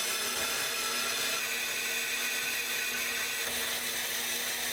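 Electric power tool running steadily on the exhaust work, a motor whir over an even hiss. It starts abruptly and cuts off about a second after the end.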